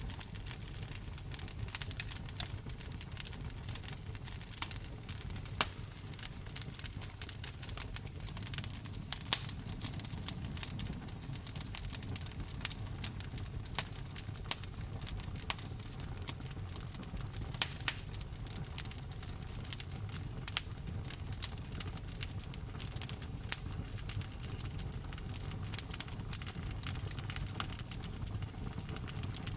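Wood fire burning in a fireplace: a steady low rumble of flames with irregular sharp crackles and occasional louder pops from the burning logs.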